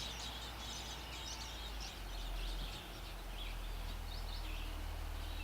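Faint, short bird chirps, a few in the second half, over a steady low rumble of outdoor background noise.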